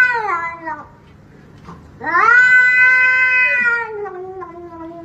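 A cat yowling in long, drawn-out calls: one trails off about a second in, and after a short pause a second long yowl starts and sinks in pitch near the end.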